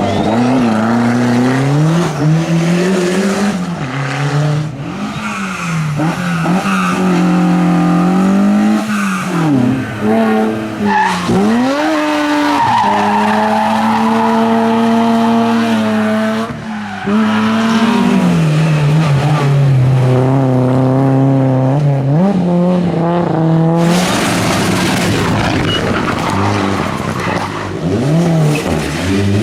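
Hillclimb race car engines revving hard, the pitch climbing and dropping again and again as they shift gears and brake for corners. A stretch of harsh, rushing noise comes near the end.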